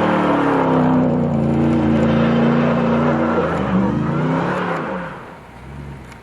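Ram 1500 TRX's supercharged 6.2-litre HEMI V8 running under load. Its note falls in the first second, holds steady, dips and recovers about four seconds in, then fades away near the end.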